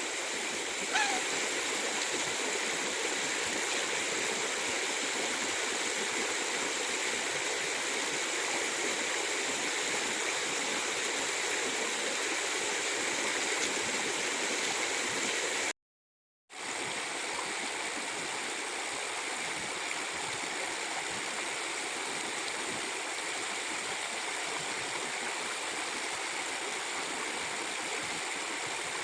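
Steady rushing and gurgling of a rainforest stream, with a brief high chirp about a second in. The sound cuts out completely for under a second at about 16 s, then resumes.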